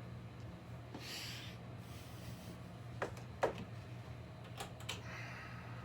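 Small clicks, short rustles and a sharp knock about three and a half seconds in, from small objects being handled, over a steady low electrical hum.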